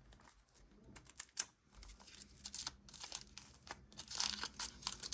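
Packaging on a surprise egg being unwrapped by hand: irregular crinkling and crackling with small tearing sounds, fairly soft.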